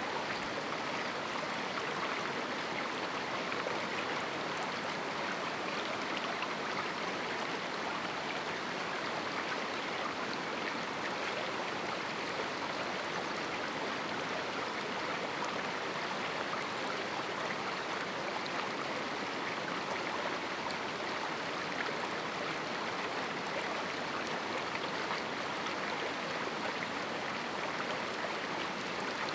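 Small river rushing steadily over rocks, an even water noise.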